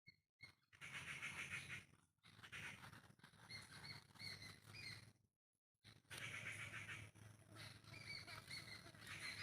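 Faint outdoor background with short high chirps repeating in small groups, cut off completely twice: right at the start and for about half a second a little past the middle.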